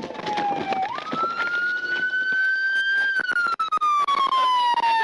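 Police siren wailing: the tone dips, jumps back up about a second in, climbs slowly, then falls slowly through the last two seconds.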